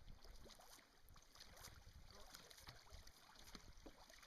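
Faint water sounds of canoe paddles dipping and pulling through a river, small irregular splashes and drips, over a low, uneven rumble.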